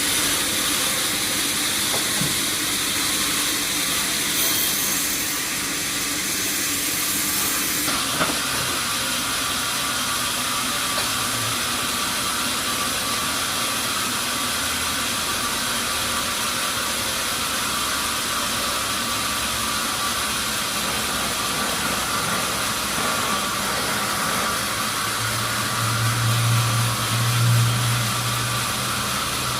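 Sawmill machinery running with a steady, noisy whir. Its sound shifts about eight seconds in, and a low hum swells briefly near the end.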